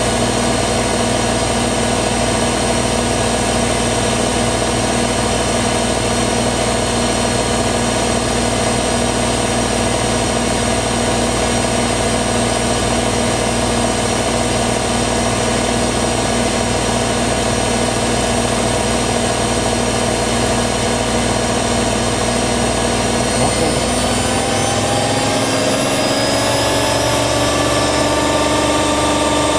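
Hoover WDYNS654D washer dryer running loud and steady, its motor whine holding several steady tones. About 24 seconds in the low hum drops away and the whine glides upward in pitch as the drum changes speed.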